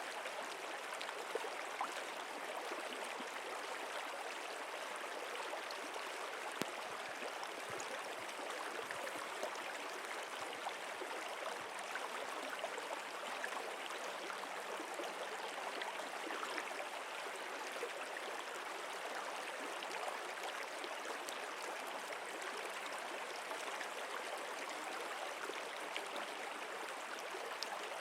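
Steady flowing water of a stream: an even rushing, unchanging in level.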